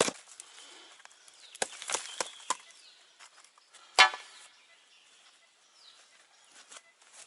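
Digging for scrap metal: a few sharp knocks, then one loud clank about four seconds in.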